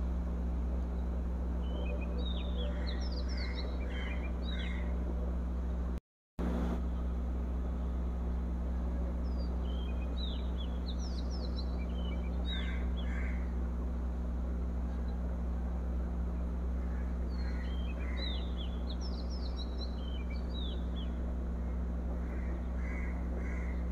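A bird singing groups of short, quick chirps, one burst of song about every seven or eight seconds, over a steady low hum. The sound drops out completely for a moment about six seconds in.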